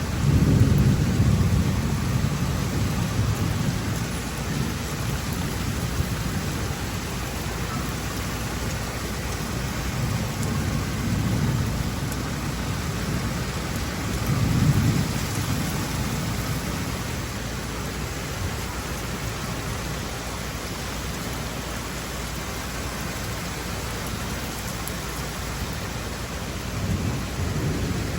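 Steady rain pouring down, with low rumbles that swell and fade a few times, the strongest near the start and about halfway through.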